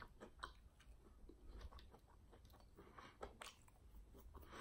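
Faint close-up chewing of a fried chicken wing: soft, irregular wet clicks and small crunches, with a few sharper ones about half a second in and past three seconds.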